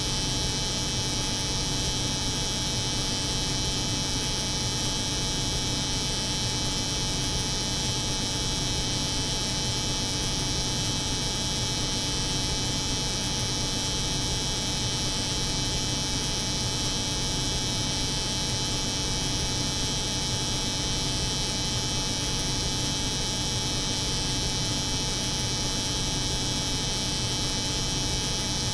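Electric hair clipper buzzing layered with the hum of a cold room's refrigeration, steady and unchanging as a continuous white-noise bed.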